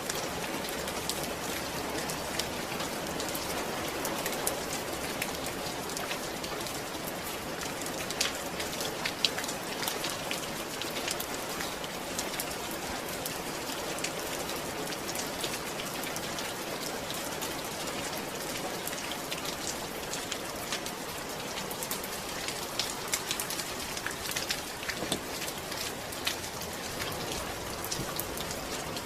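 Steady rain falling, an even hiss sprinkled with many sharp drop ticks, used as a sleep soundscape.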